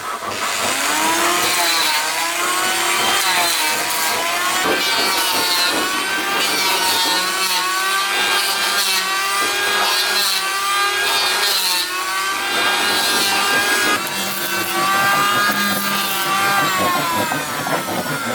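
Saw cutting through wood in steady back-and-forth strokes, about one a second. On each stroke the blade sings with a pitch that rises and falls.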